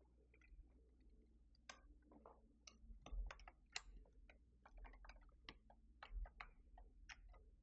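Faint, irregular light clicks of plastic keyboard keycaps being handled and sorted while the Page Up key is sought, a few sharper clacks among them.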